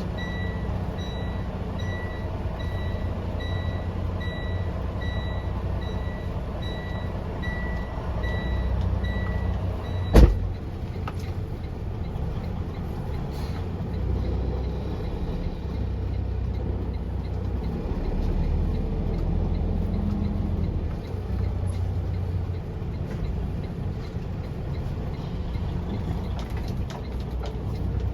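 Heavy truck engine running with a low, steady rumble, while a reversing alarm beeps about twice a second for the first ten seconds. About ten seconds in there is a single sharp thump, the loudest sound, and the engine carries on afterward.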